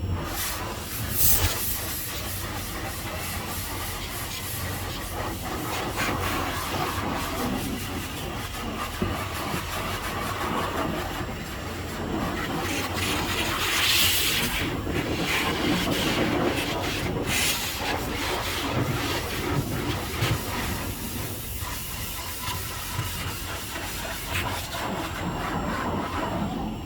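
High-pressure water spray washing a truck: a steady hiss, with louder blasts about a second in, around the middle, and again about two-thirds through.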